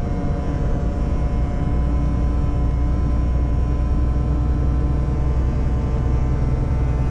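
Renault truck running on the road: a steady low engine and road drone that strengthens about a second and a half in, with a constant buzzing tone over it. The buzz is a very annoying, strange plastic noise, likely a vibrating trim or fitting.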